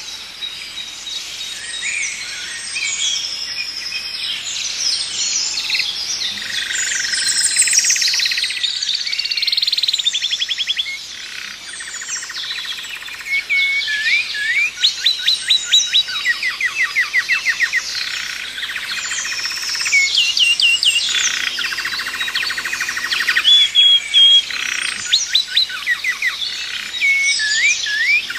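Several songbirds singing and calling over one another, with whistled phrases and fast trills of rapidly repeated notes.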